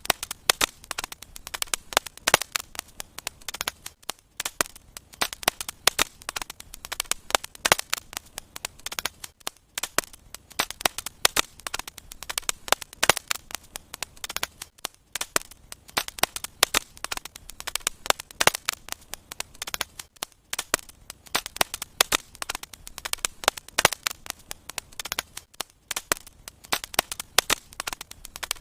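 Wood fire in a fireplace crackling and popping, with many sharp irregular snaps over a soft hiss.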